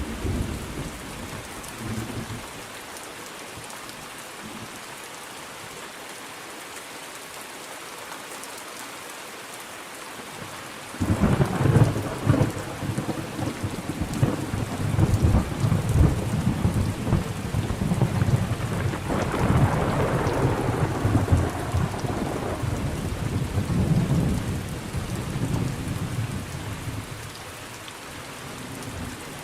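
Steady rain falling, with a long roll of thunder that breaks in suddenly about a third of the way in, swells again, and dies away near the end.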